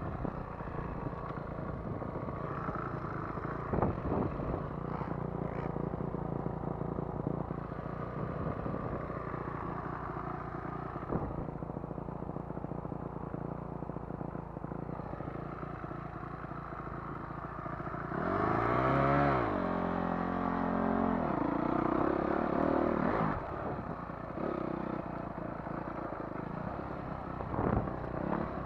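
Motocross dirt bike engine running over uneven ground with knocks and clatter. About two-thirds of the way in it revs hard, its pitch rising and falling, then settles back.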